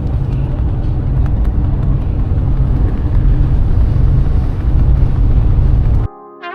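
Loud, steady rumble aboard a moving ferry. It cuts off suddenly about six seconds in, and brass music starts.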